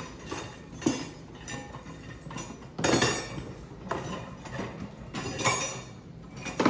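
Parts of a bird feeder kit knocking and clinking together as they are handled and fitted, a few separate, irregular knocks.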